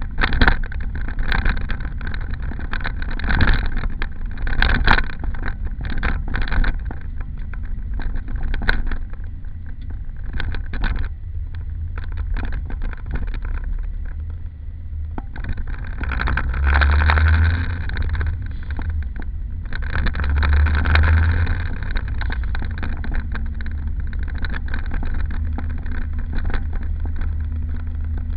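Car running with a steady low engine-and-road rumble, which grows louder twice for a second or two, about halfway and two-thirds of the way through.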